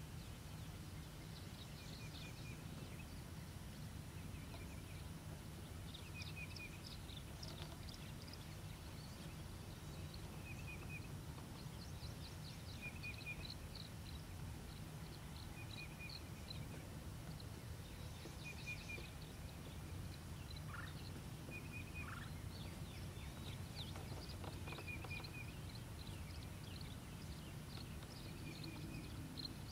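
Wild birds calling faintly over a steady low rumble: a short note repeated every few seconds, with scattered bursts of quick, higher chirps.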